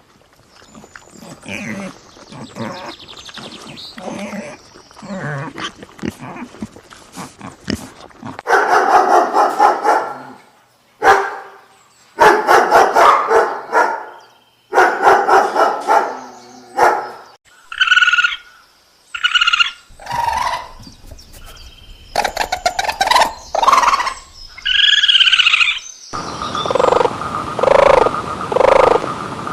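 A run of different animal calls, dog barks and yips among them, ending in a steady series of evenly repeated croaks.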